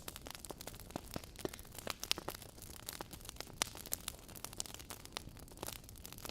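Wood fire crackling: irregular sharp pops and snaps of burning logs over a soft steady hiss.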